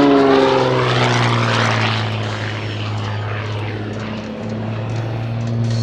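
Game Composites GB1 GameBird aerobatic plane in flight: its Lycoming six-cylinder engine and propeller drop in pitch over the first second or so as it passes, then settle into a steady drone.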